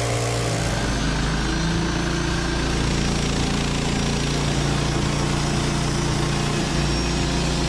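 Small petrol engine of a portable bandsaw sawmill running steadily, with a steady low hum.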